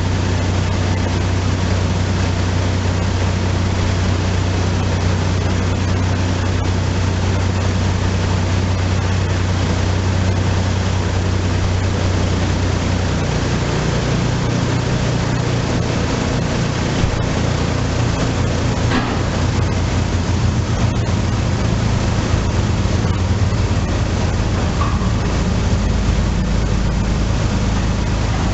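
1998 Nissan Pathfinder SE's 3.3-litre V6 running steadily through a cat-back exhaust, freshly fitted with new spark plugs and wires to cure a random misfire. Its low note shifts about halfway through.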